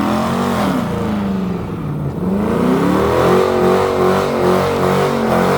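Car engine revving hard as the car is slid around a corner, its pitch sweeping up and down, then held high with a regular choppy pulsing through the second half.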